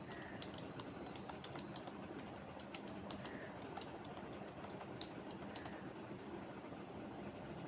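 Computer keyboard typing, faint: irregular key clicks coming in short runs, over a steady low background hum.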